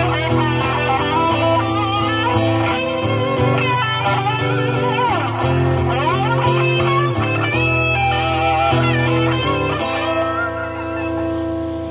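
Live band playing an instrumental ending: a guitar solo with bent and wavering notes over bass and drums. About ten seconds in the playing stops on a held chord that starts to fade.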